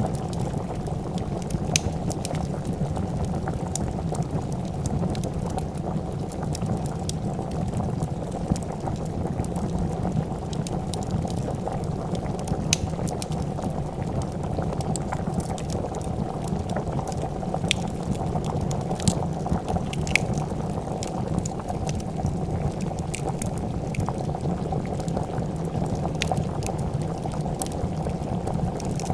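A pot of soup boiling with steady, dense bubbling, along with scattered sharp crackles and pops from a wood fire.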